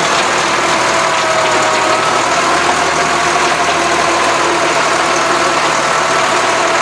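Massey Ferguson tractor engine running steadily at an even pitch.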